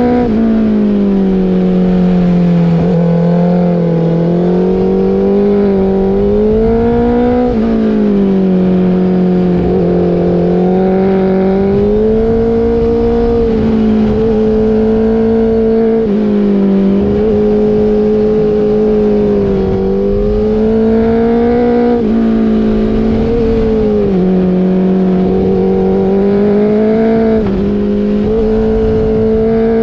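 Motorcycle engine running under way. Its pitch rises and falls gently every few seconds as the throttle opens and closes.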